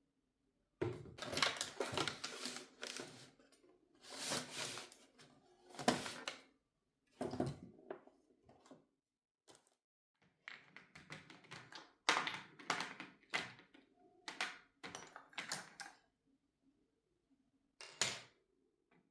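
Objects being handled: irregular rustling and scraping bursts with knocks and clatters, then a run of quicker, lighter taps and clicks in the second half.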